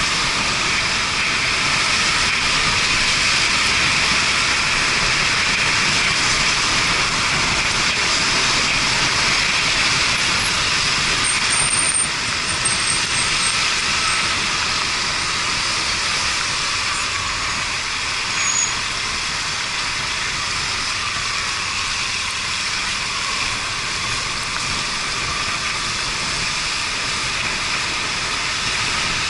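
Steady rush of wind and road noise on a motorcycle ride in the rain: air streaming past the action camera, tyres on wet road and the Yamaha Fazer 250 running underneath. There is a small knock about twelve seconds in.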